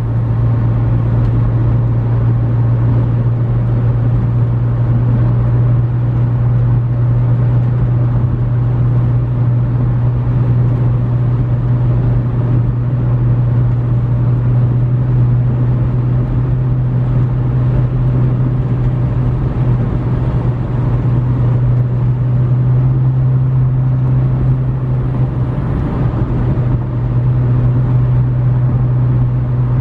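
2015 McLaren 650S Spyder's twin-turbocharged V8 running while the car drives at a steady speed: a constant low drone with road noise under it.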